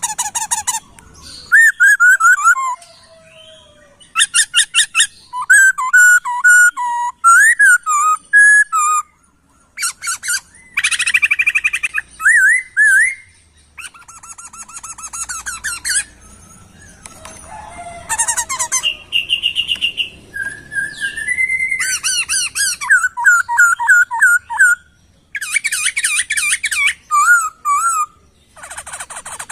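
Poksay (laughingthrush) singing a loud, varied song. Phrases of fast rattling trills alternate with clear whistled notes that glide up and down, with short pauses between phrases.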